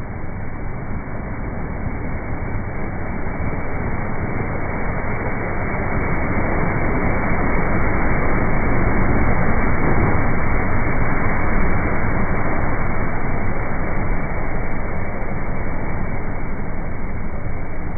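Motorboat running close by, its noise building to a peak about halfway through and then easing off a little as it passes.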